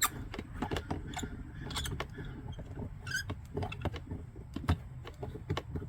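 Irregular clicks, taps and small metallic scrapes of an outdoor hose faucet's parts being handled and taken apart, with a brief high chirp about three seconds in.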